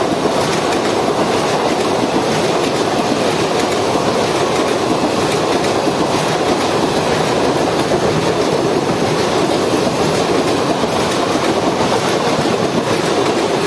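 ICF passenger coaches of an express train rushing past at speed: a loud, steady rush and clatter of wheels on the rails.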